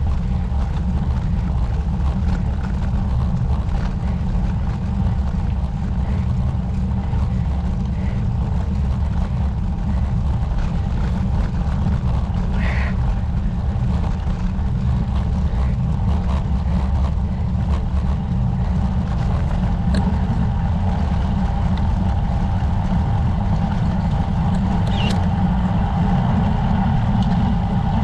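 Wind buffeting the microphone of a camera on a moving road bicycle, a steady low rumble.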